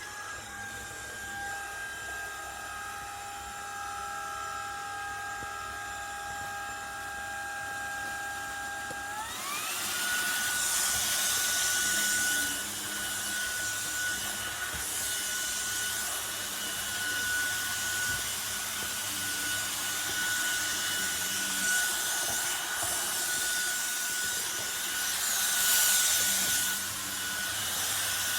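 Cordless stick vacuum's brushless motor switching on and running with a steady high whine over rushing air. About nine seconds in the whine steps up to a higher pitch and the airflow gets louder, as the vacuum is switched to a higher suction setting.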